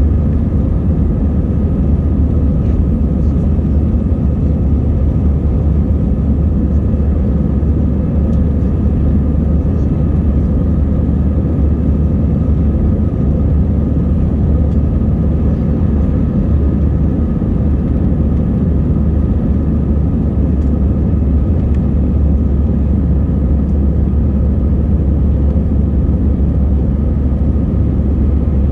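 Airbus A320 jet engines and airflow after takeoff: a loud, steady deep rumble with a faint steady hum over it, unchanging throughout.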